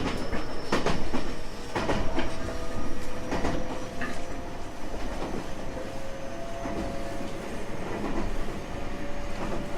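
Running sound inside a JR West 225 series 5000-subseries electric train: wheels clicking over rail joints about once a second under a steady rumble. A faint whine from the Toyo Denki IGBT inverter and traction motors rises slowly in pitch as the train gains speed.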